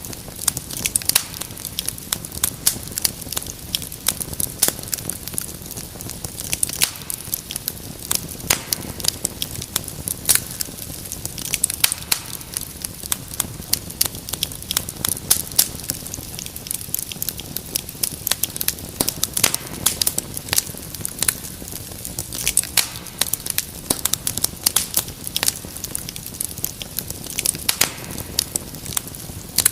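Fireplace fire crackling: a dense, irregular run of small pops and snaps over a low steady rumble of the flames.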